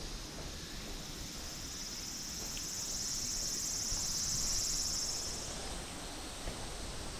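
Insects buzzing in a high, shimmering drone that stops about five and a half seconds in, over a steady low rush of the waterfall.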